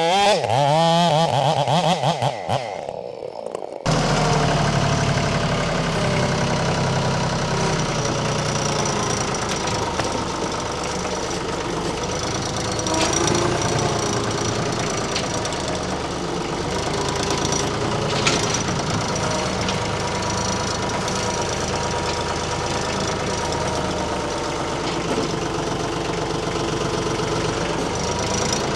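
A chainsaw's wavering engine note for about the first two seconds, then a tractor's diesel engine running steadily with an even clatter from about four seconds in.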